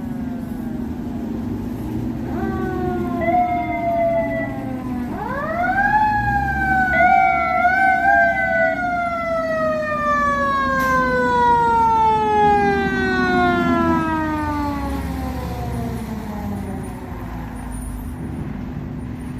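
Fire truck siren winding up in pitch twice, about two and five seconds in, then slowly falling in pitch over about ten seconds, over a steady low engine drone.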